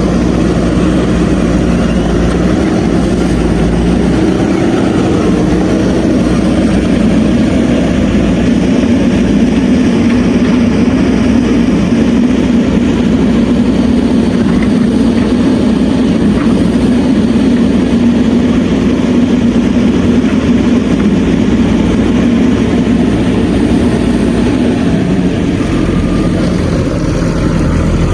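JCB 3DX backhoe loader's diesel engine running steadily and loudly, its pitch shifting a few times as the machine works.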